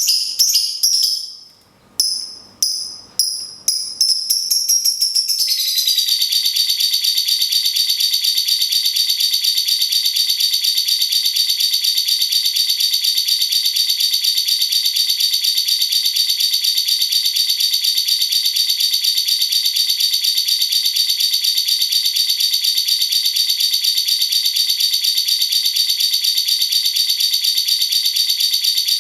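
A cage bird's sharp, high calls quicken over the first few seconds and run together, about five seconds in, into one long, very fast rattling trill that holds steady.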